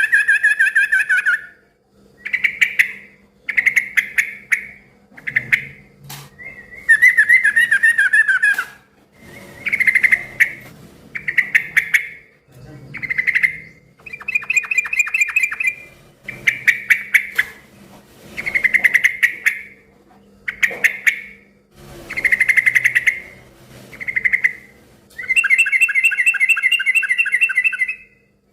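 Yellow-vented bulbul (trucukan) singing loudly in a run of short, bubbly chattering phrases, each about a second long and made of rapid stuttering notes, following one another with short pauses.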